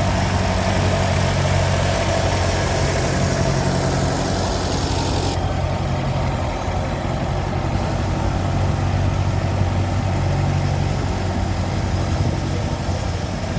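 An engine running steadily with a low, even hum. A loud hiss over it cuts off suddenly about five seconds in.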